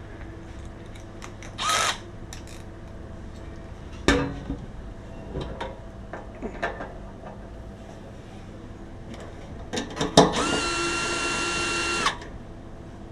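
A small electric power tool whirring in two trigger-style runs: a short burst about two seconds in, then a steady two-second run near the end that starts and stops sharply. Knocks and clicks of handling come in between.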